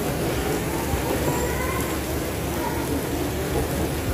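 Steady rain falling, over a continuous low rumble.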